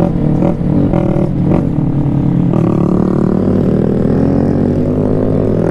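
Small single-cylinder motorcycle engine, a Honda Grom 125, running under way while riding. The engine note changes about two and a half seconds in and then slowly falls, as if the bike is easing off.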